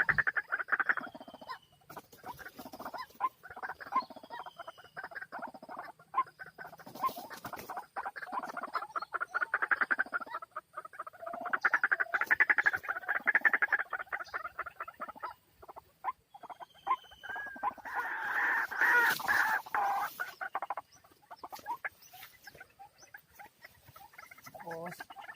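White-breasted waterhens calling: rapid runs of repeated call notes in bouts of a few seconds each, coming back several times, the longest and loudest a little past the middle.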